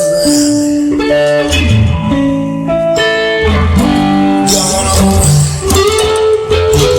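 Electric guitar playing a bluesy instrumental passage, notes changing about every half second to second, with a bass line underneath.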